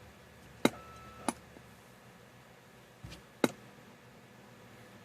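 Sharp plastic clicks in two pairs, about half a second apart, from working a CB radio's controls and keying its microphone during a power test into a dummy load.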